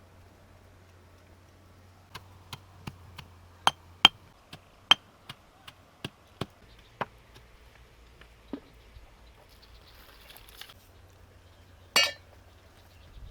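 A series of sharp, irregular knocks, about fifteen over several seconds, a few of them loud. Near the end comes one louder, rougher clatter.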